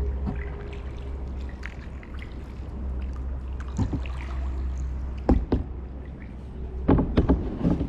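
Kayak paddle strokes: the blade dipping and splashing in the water, with sharp knocks and splashes about four seconds in, twice around five and a half seconds, and a cluster near the end, over a steady low rumble.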